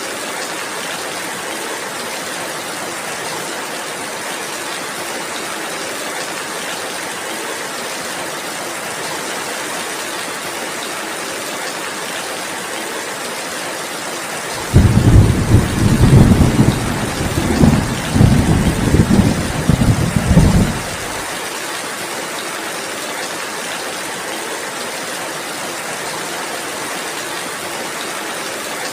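Steady rainfall, with a loud, low rumble of thunder breaking in about halfway and rolling on for some six seconds before it stops.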